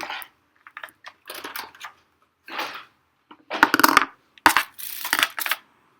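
Small plastic toy pieces clicking and clattering as they are handled and set down, in a run of short bursts.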